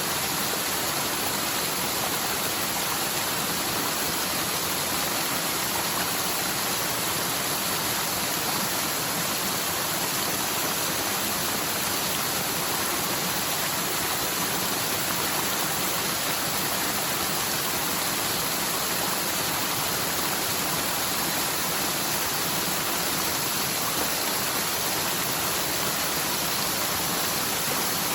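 Forest mountain stream running high after typhoon rains, a steady rush of water pouring down the slope. The rushing noise keeps an even level throughout.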